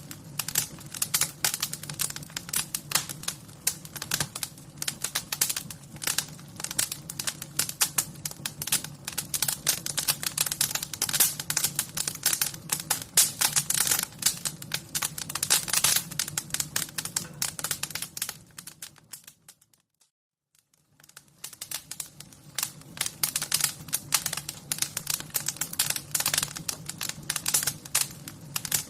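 Wood fire crackling: dense, irregular pops and snaps over a steady low rumble. About two-thirds of the way through the sound fades almost to silence for a second or two, then fades back in, like a loop being joined.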